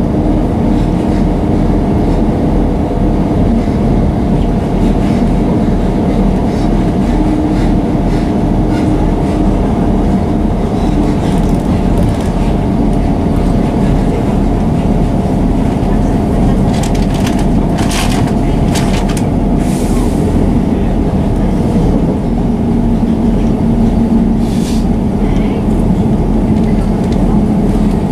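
Class 158 diesel multiple unit heard from inside the carriage on the move: a steady rumble of engine and wheels on the rails, with a few sharp clicks about two-thirds of the way through.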